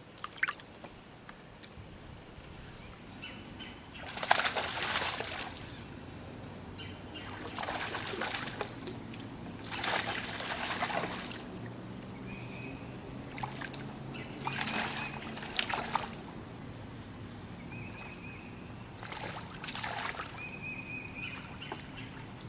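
Water splashing and trickling in about five short bursts a few seconds apart, over a low steady background.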